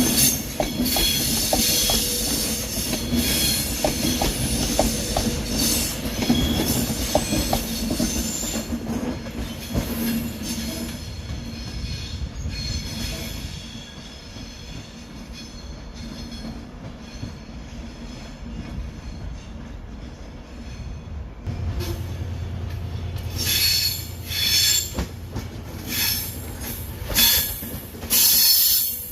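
A train moving slowly through station pointwork, its wheels squealing and grinding on the rails; the noise eases off about halfway through. A steady low hum then starts, and sharp wheel squeals come again several times near the end.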